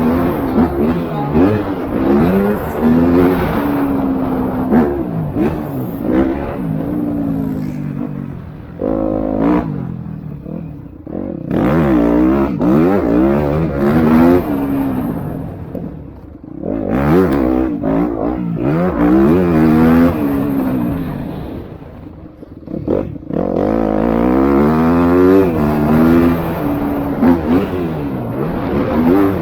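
Several MX2-class motocross bikes racing. Their engines rev up and down through gear changes as they pass, with three brief lulls when the sound fades away.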